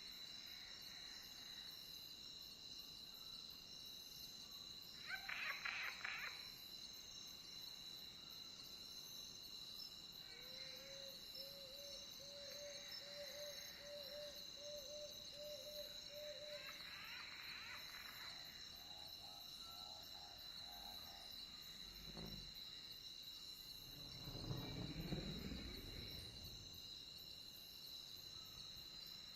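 Faint night chorus of crickets: a steady, high, continuous chirring. Other animal calls sound over it now and then: a short louder call about five seconds in, a run of about a dozen quick repeated low notes in the middle, and a louder, lower sound about two-thirds of the way through.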